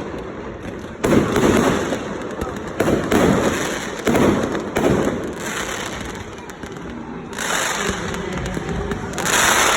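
Fireworks display: a series of loud bursts every second or so, each trailing off, then a stretch of hissing crackle and another burst near the end.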